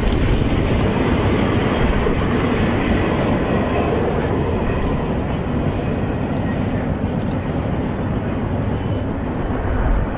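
Steady rumble of diesel freight locomotives hauling a long train of loaded coal hopper cars, heard from a distance.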